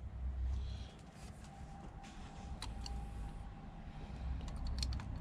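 A spark plug being fitted back into a Volvo straight-five cylinder head by hand and with a plug socket: light metallic clicks and taps, a few around the middle and a quick cluster near the end, over low handling rumble.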